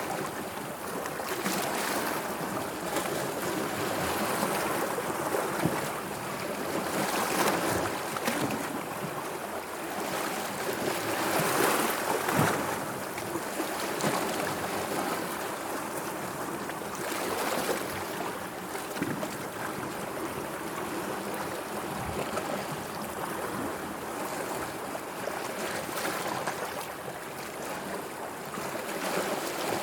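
Sea water washing and lapping in a steady rush, swelling louder every few seconds as waves come in.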